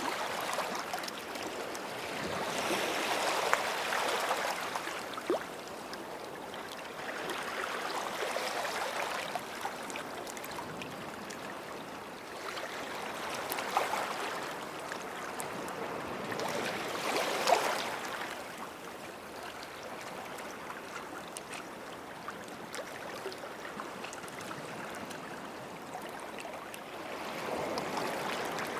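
Small sea waves washing up on a beach, each wash swelling and fading over a second or two, several times, with a fizzing, gurgling trickle between them.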